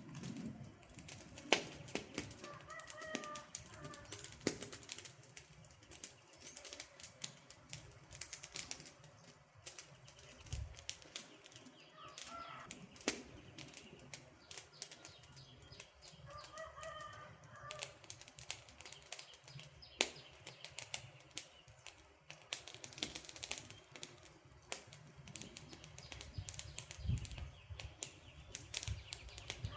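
Campfire burning with constant irregular crackling and sharper pops from the wood. A bird calls briefly about three times in the background.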